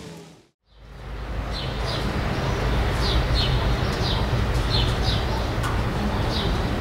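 Birds chirping in short, quick falling notes, often in pairs, over steady low background noise; the sound drops out to silence for a moment just before the chirps begin.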